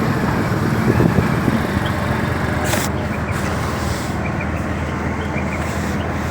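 Road traffic noise: a steady rumble of vehicle engines and tyres, with a brief sharp burst of noise about three seconds in.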